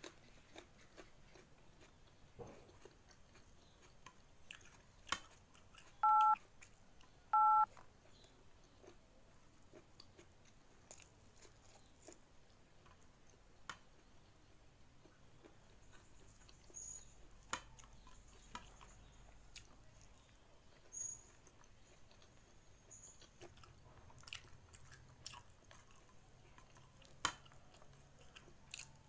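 Close-up eating sounds: chewing and soft mouth clicks as a mouthful of rice with fried egg and sambal petai is eaten by hand. Two short two-tone electronic beeps sound about six and seven and a half seconds in, louder than the eating.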